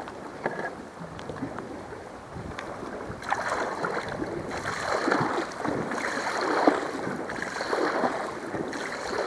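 Kayak paddle strokes splashing in the water, a repeated swish starting about three seconds in and recurring a little more than once a second.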